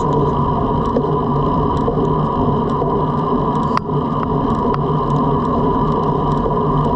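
Steady rush of wind and tyre noise from a road bike moving at speed, with a few faint clicks.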